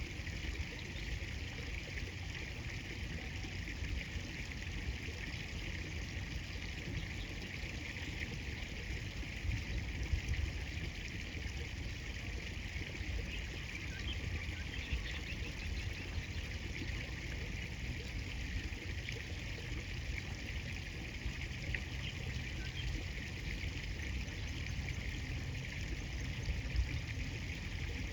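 River water flowing steadily, a continuous trickling rush of current.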